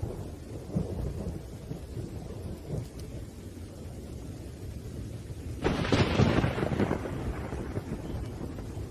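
Thunderstorm: thunder rumbling low and continuously over rain, with a sudden sharp thunderclap about five and a half seconds in that fades over a second or two.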